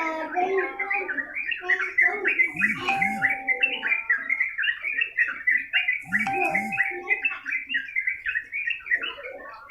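Yellow-vented bulbul song: an unbroken stream of quick, bubbling chirps. Twice a lower, flat whistled note cuts in.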